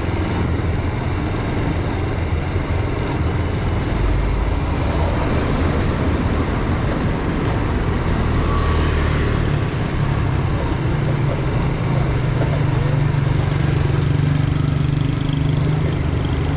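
Motor vehicle engine running with traffic noise, a steady low hum that grows stronger in the second half.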